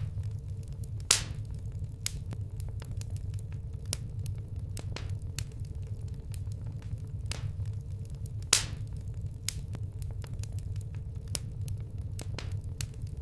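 Wood fire burning with a steady low rumble and irregular crackles and snapping pops, two of them much louder, about a second in and near the middle.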